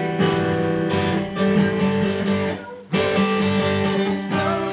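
Guitar strumming chords in a live rock song, with no singing, and a short break in the playing just before three seconds in.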